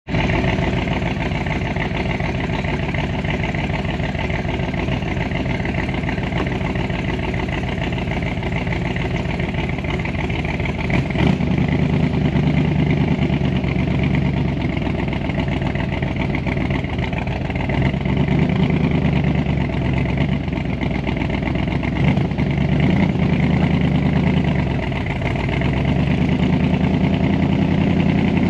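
Ford 427 FE side-oiler V8 on Weber carburetors running in a Cobra replica. It runs evenly for about the first ten seconds, then becomes louder and uneven, rising and falling, with a brief drop near 25 seconds.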